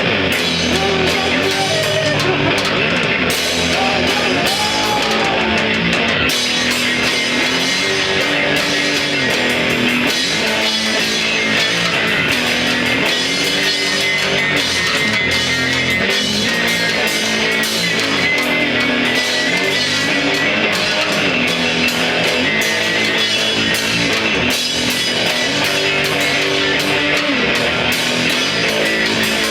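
Rock band playing live: guitar and drum kit, steady and loud with no break.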